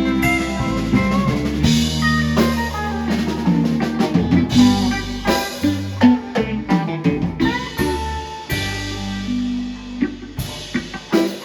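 Live band playing an instrumental passage with no singing: guitar lines over bass and a drum kit.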